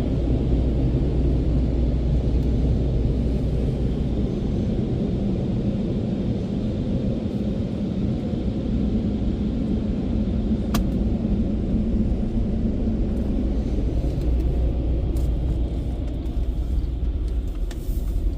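Steady low rumble of a car running, with one sharp click about eleven seconds in.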